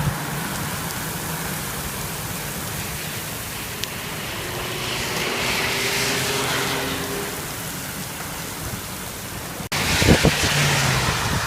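Heavy rain falling steadily. Near the end the sound cuts out for an instant and comes back louder, with a few low thumps.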